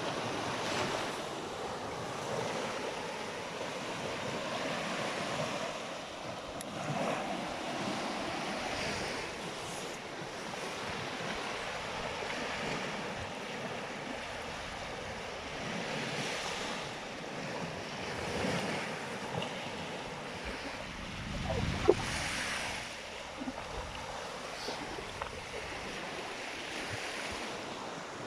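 Sea waves washing onto the shore in swells every few seconds, with wind buffeting the microphone. A single sharp knock comes about three-quarters of the way through.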